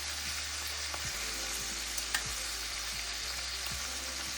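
Marinated chicken drumsticks sizzling in hot oil in a frying pan: a steady frying hiss with a few small crackles.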